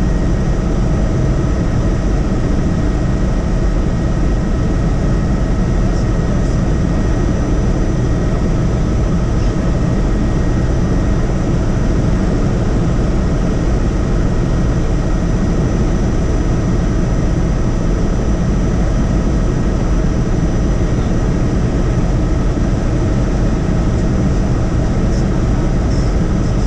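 Helicopter in steady flight: a loud, unchanging rumble of rotor and engine with constant whining tones above it.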